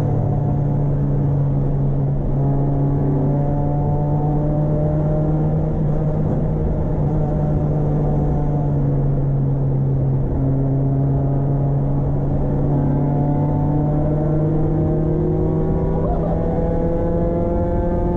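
Proton Wira's 4G92P 1.6-litre four-cylinder engine running steadily while the car drives, its note climbing in pitch near the end as it accelerates.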